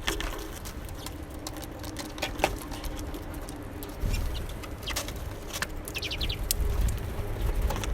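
Small birds at a winter feeder: scattered sharp taps and flutters of wings, and a quick run of short high chirps about six seconds in.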